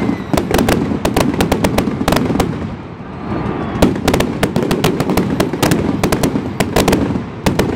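Aerial fireworks going off in fast, irregular volleys of sharp bangs, with a short lull about three seconds in before the bangs come thick again.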